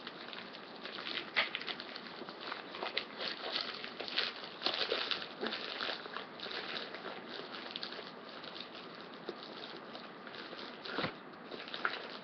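Packaging being worked at by hand, trying to get it open: irregular crinkling, scratching and rustling of the mailer, with a soft bump near the end.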